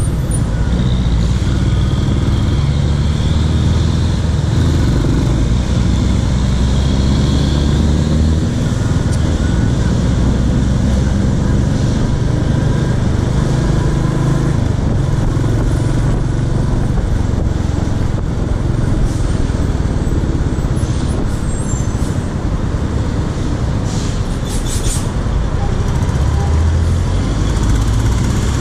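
Royal Enfield Classic 350's single-cylinder engine running under way, heard from the rider's seat amid city traffic, with its engine note shifting about eight seconds in.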